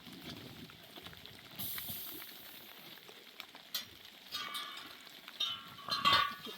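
Metal clanking twice with a short ringing, the second clank louder and starting with a knock, like a bell or pot being struck.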